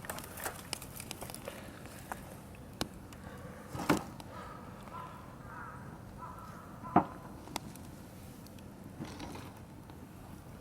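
Wood fire crackling, with scattered small pops and two louder sharp snaps about four and seven seconds in.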